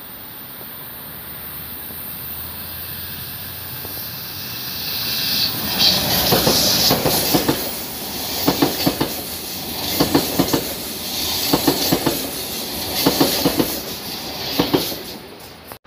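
Deutsche Bahn Intercity 2 double-deck train approaching and passing close by. Its rumble builds up, then the wheels clack on the track in regular groups about every one and a half seconds as each coach goes past. The sound cuts off suddenly near the end.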